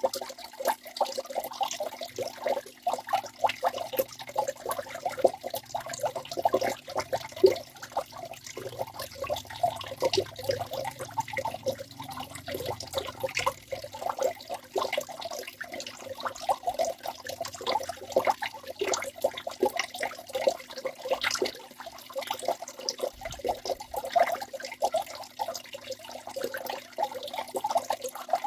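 Waterfall: water rushing and splashing continuously, as a dense, uneven patter of small splashes with no let-up.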